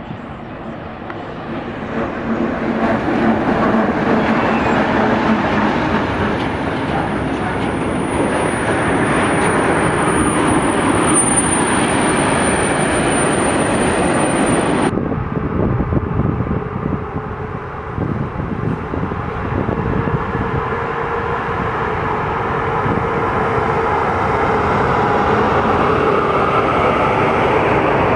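A train running past, its noise building over the first few seconds, with a thin high squeal for several seconds. About halfway through the sound changes abruptly to another stretch of steady train running noise with a faint steady hum.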